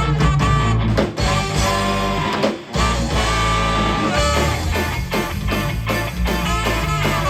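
Live rock band playing an instrumental passage: guitar over a steady bass line and a regular drum beat, with a brief drop in level about two and a half seconds in.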